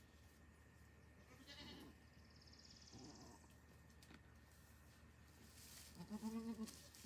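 A goat bleating: one wavering bleat near the end, with fainter short calls earlier.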